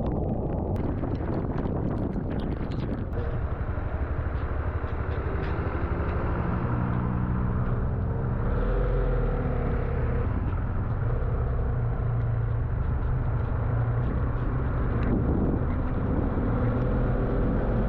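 Motorcycle engine running at road speed under steady wind and road noise, its pitch rising and falling between about six and twelve seconds in.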